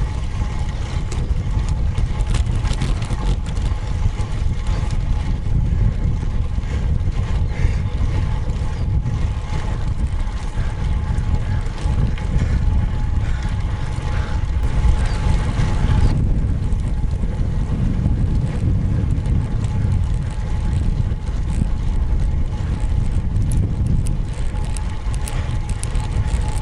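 Wind buffeting the microphone while riding a road bike: a steady low rumble with faint road and tyre noise.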